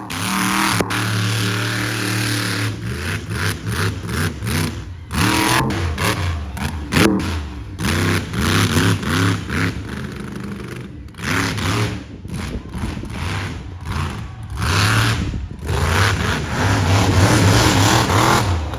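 Monster truck engine revving hard and falling back again and again, with many short sharp cracks and knocks through the middle of the run.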